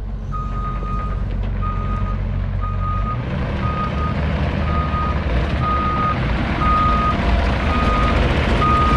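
Heavy equipment's backup alarm beeping about once a second, over the engine running underneath, which gets louder after about three seconds as the machine moves.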